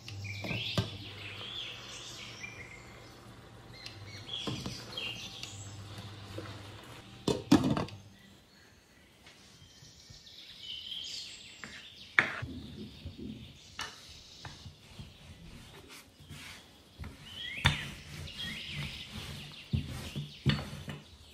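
A bird chirping in short bursts several times, with a few sharp knocks as dough is kneaded and rolled out with a wooden rolling pin on a tabletop.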